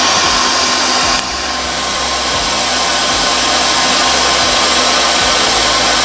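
A forge just lit and running: a loud, steady rush of forced air through the fire, easing slightly about a second in.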